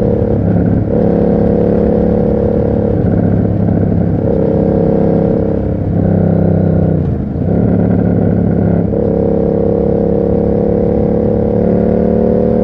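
Yamaha MT-07 parallel-twin engine running through an SC Project aftermarket exhaust while riding. The engine note holds steady for stretches and steps up and down in pitch several times, dips about seven seconds in, and rises slowly near the end.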